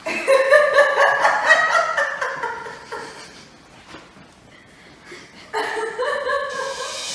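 A person laughing in two bouts: a long run of broken, pulsing laughter, then a shorter bout starting about five and a half seconds in.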